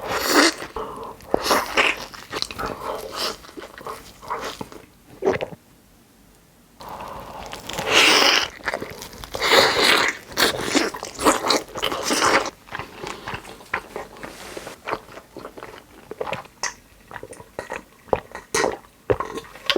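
Close-miked mukbang eating: repeated bites and chewing with crunching. There is a brief pause about six seconds in, and the loudest crunching comes in the middle.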